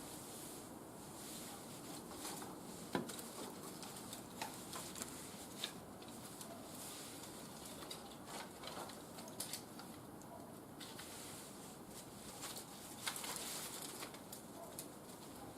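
Small wood fire burning in a barbecue grill, crackling and popping irregularly over a steady low hiss, with a sharper pop about three seconds in and another near the end.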